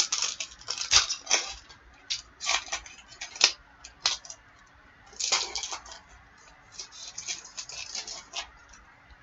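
Crinkling and tearing of a foil trading-card pack wrapper as the next pack is opened, with the cards being handled: a string of short, irregular crackles.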